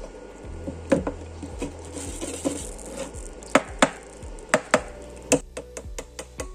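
Irregular sharp knocks and taps, a dozen or so spread unevenly, with a low hum under them during the first half.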